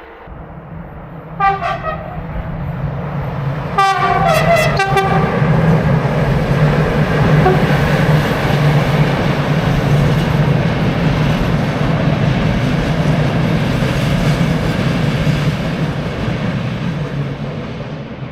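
A train sounds its horn, first a short blast and then a longer broken one about two seconds later, and then passes close by with a loud, steady rumble that fades near the end.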